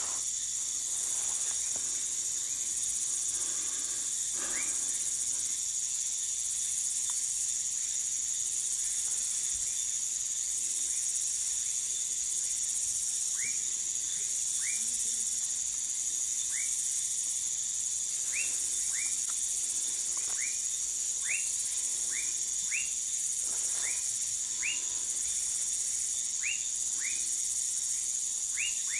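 A steady, high-pitched chorus of night insects, dense and unbroken, with short rising chirps repeating over it. The chirps are sparse at first and come in quick runs near the end.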